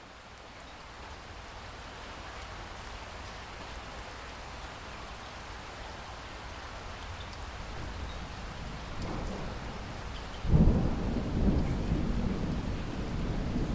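Steady rain hiss that swells gradually, with faint scattered drips. About ten and a half seconds in, a sudden loud rumble of thunder breaks out and rolls on.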